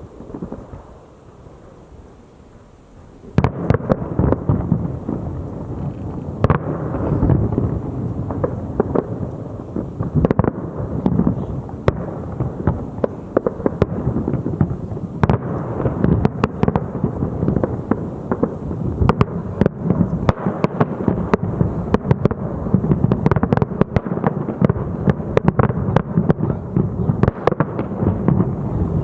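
A fireworks display: after about three quieter seconds, a dense barrage of shell bursts and crackling suddenly starts and carries on without a break, many sharp bangs over a continuous rumble.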